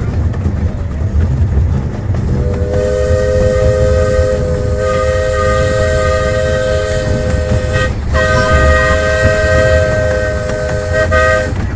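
Miniature steam locomotive's chime whistle sounding a multi-note chord: a long blast, a short break, then a second long blast, over the low rumble of the train running.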